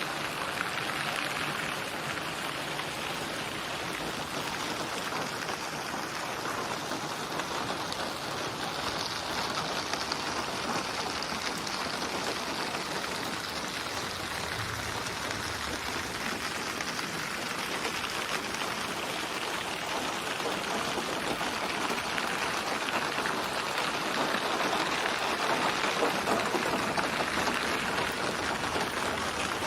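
Steady rain falling, a dense even patter of drops, growing a little louder in the last few seconds.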